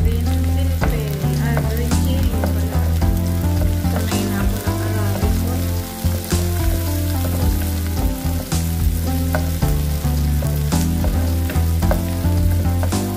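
Sliced onions and green chili sizzling in a frying pan, stirred with a wooden spoon that now and then scrapes or taps against the pan.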